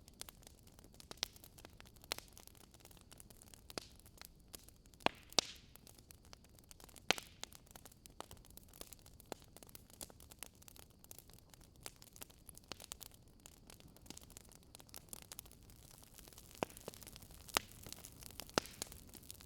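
Wood fire crackling: irregular sharp pops and snaps over a soft steady hiss, a few of them louder.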